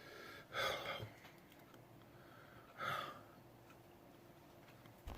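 A man breathing out hard twice, about half a second in and again near three seconds, sharp huffing breaths through the mouth against the burn of a superhot chili pepper.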